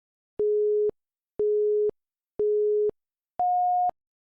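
Interval-timer countdown: three short electronic beeps one second apart at the same pitch, then a fourth, higher beep, signalling the end of a timed exercise interval.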